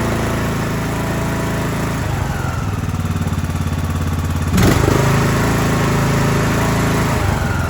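John Deere S100 lawn tractor's single-cylinder Briggs & Stratton 17.5 hp engine running steadily. A sharp knock comes about four and a half seconds in, after which the engine note is fuller.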